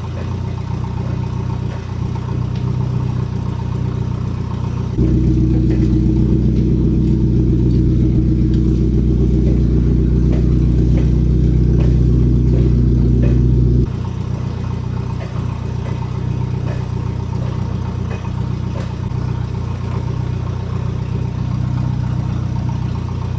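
Forklift engine running steadily. For about nine seconds in the middle it is louder and deeper, starting and stopping abruptly.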